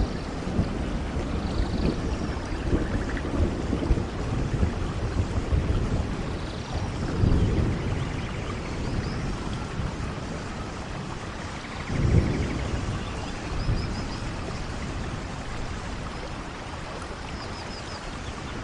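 Steady rain with low rolling thunder. Two stronger rumbles swell about seven and twelve seconds in, then fade back into the rain.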